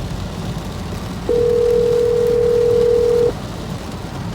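Phone ringback tone heard through the phone's speaker: one steady two-second ring tone while the call waits to be answered, over a low steady rumble underneath.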